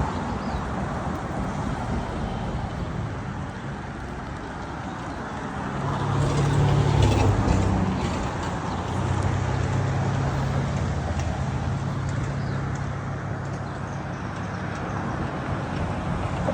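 Road traffic with a motor vehicle's engine hum, loudest about six to eight seconds in, over a steady outdoor background hiss.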